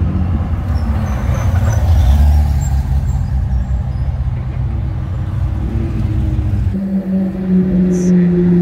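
Classic air-cooled Porsche 911s rumbling past at low speed. About seven seconds in, the rumble gives way to a steady, even engine note as a Ferrari 458's V8 comes up the street.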